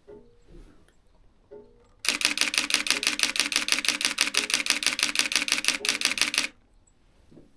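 Nikon D7000 DSLR shutter firing in a rapid continuous burst of evenly spaced clicks, lasting about four and a half seconds and starting about two seconds in.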